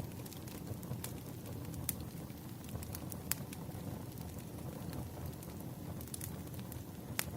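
Wood fire crackling: scattered sharp pops and snaps over a steady low rumble of burning logs, with louder pops about two seconds in, a little after three seconds, and near the end.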